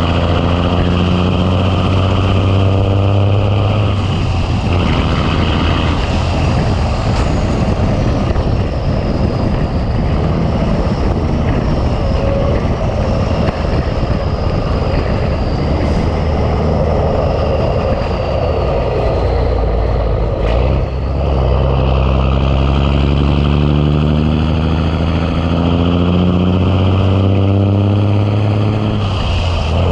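Big Cam Cummins inline-six diesel in a 1986 Ford LT9000 tractor pulling a load. Its pitch climbs through a gear, then it runs steadily, mixed with road noise. From about two-thirds of the way through it climbs again, until a drop near the end that sounds like a gear change.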